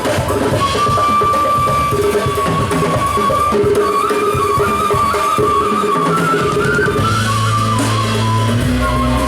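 Live band music: a high, wavering melody over busy drums. About seven seconds in, the drums drop away, leaving held bass notes under the melody.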